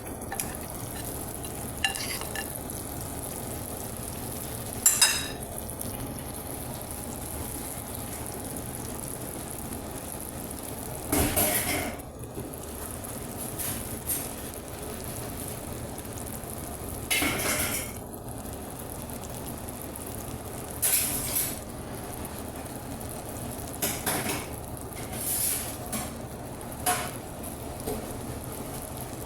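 Food sizzling steadily as it fries in a pan, with a utensil stirring and scraping against the pan in short bursts every few seconds.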